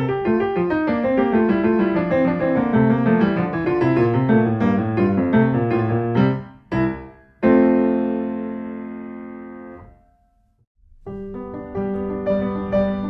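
Background piano music: a run of notes, then a held chord that rings and fades away about ten seconds in, a second of silence, and the piano starts again.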